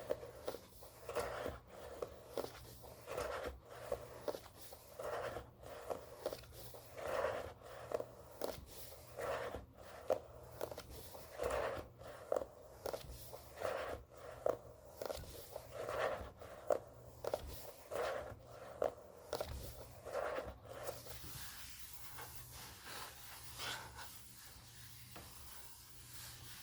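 Book pages being handled: soft papery rustles about once a second, thinning out to a few fainter ones about 21 seconds in.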